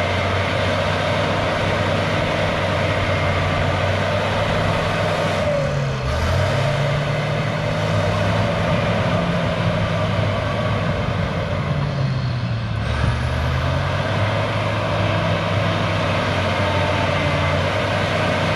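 Cat D6H bulldozer's diesel engine running steadily under work, its note shifting in pitch about six seconds in and again about thirteen seconds in.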